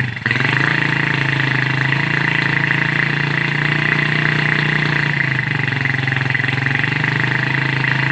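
Honda GL 100 motorcycle's single-cylinder four-stroke engine running at a steady idle through its original stock exhaust.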